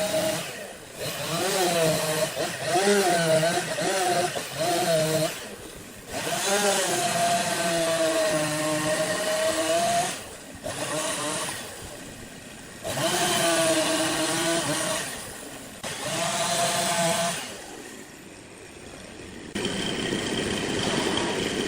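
Chainsaw running in bursts, its pitch wavering and dipping as it cuts through wood, with short pauses between cuts.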